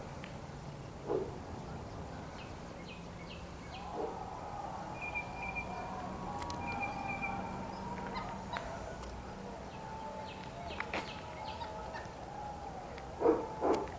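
Birds calling, with a drawn-out call through the middle and a few short louder calls near the end.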